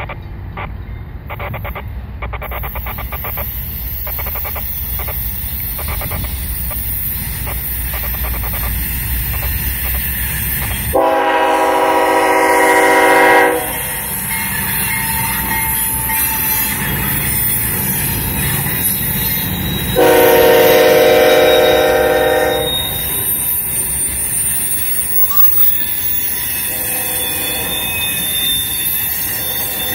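A CSX freight train's diesel locomotive rumbles as it approaches, then sounds its multi-note air horn in two long blasts, the first about a third of the way in and the second just past two thirds. After that, tank cars roll past on the curve with steady wheel noise and faint, thin wheel squeal.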